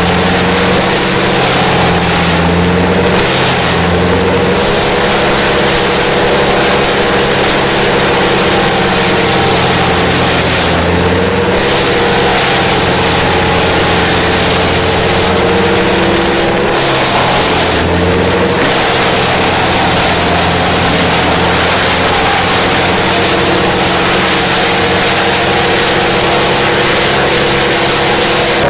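Wood chipper running loud and steady at full speed, its diesel engine note under a dense grinding noise that thins briefly a few times.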